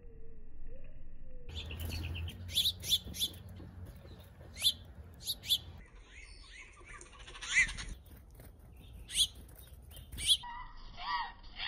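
Small birds chirping: short, sharp, high calls that come one after another, each dropping quickly in pitch, over a low steady background hum. Near the end a harsher, lower call starts and repeats.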